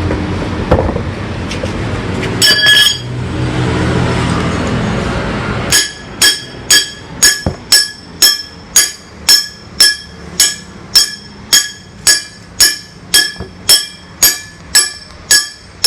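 Rumble of a passing train, then a level-crossing bell dinging steadily about twice a second, each stroke a sharp metallic ding that rings on briefly.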